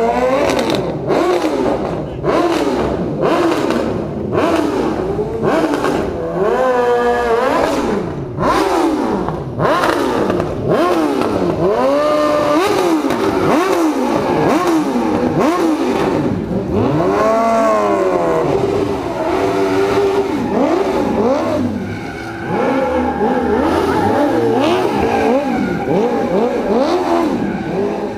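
Several cross car engines revving up and down over and over, their pitch rising and falling in repeated sweeps that overlap one another.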